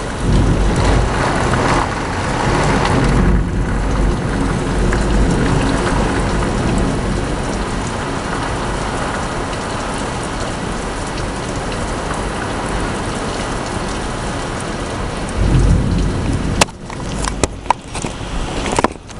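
Heavy rain beating down steadily during a thunderstorm, with thunder rumbling in the first few seconds and again near the end. In the last few seconds the rain noise drops away and a few sharp clicks sound.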